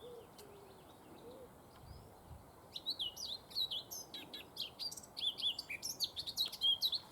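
Male Eurasian blackcap singing: a fast, varied warble of high notes that starts a few seconds in and keeps going.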